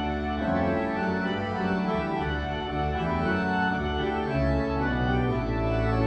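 Organ music: sustained chords held for a second or so at a time over a deep bass line that moves between notes.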